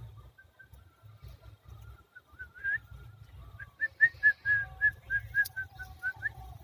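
A bird calling: a quick run of short, rising whistled notes, about five a second, starting about three and a half seconds in, with a few similar notes shortly before. A low rumble runs underneath.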